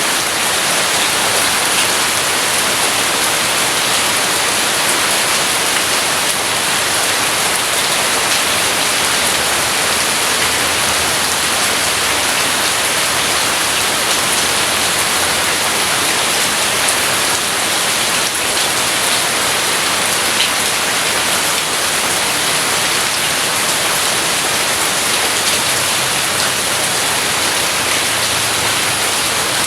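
Steady, heavy rain falling, an even, unbroken hiss.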